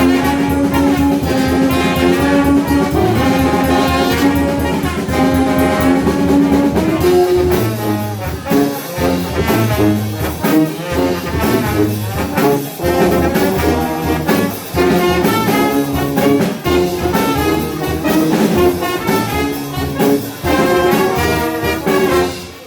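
Brass band playing a metal song live: held brass chords for the first several seconds, then a fast rhythmic passage with percussion hits and pulsing low brass, cutting off abruptly at the end.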